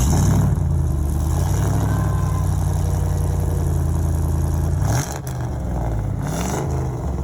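345 Hemi V8 engine running at a steady idle with a deep exhaust note, then a quick rev about five seconds in, after which it runs less evenly.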